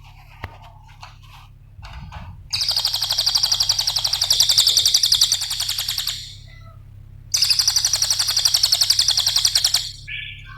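Cililin songbird singing: a few soft chirps, then two long, very fast rattling 'ngetik' trills, one starting after about two and a half seconds and the other after about seven, with softer calls near the end.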